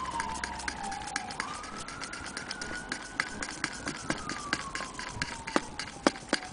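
Antique Willcox & Gibbs sewing machine running, with fast, even mechanical clicking. Over it, a high wailing tone slides slowly down in pitch, jumps back up about a second and a half in, and slides down again.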